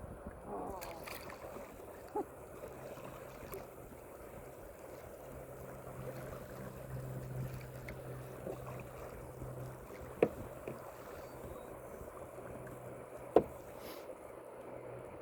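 Kayak drifting on a fast river: steady water wash around the hull, with a few sharp knocks, the loudest about ten and thirteen seconds in, and a faint low hum for several seconds in the middle.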